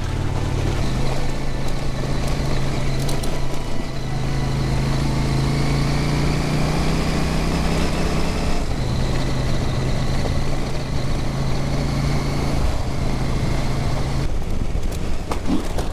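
Husqvarna Norden 901's parallel-twin engine running steadily as the motorcycle rides on, its pitch shifting slightly a few times.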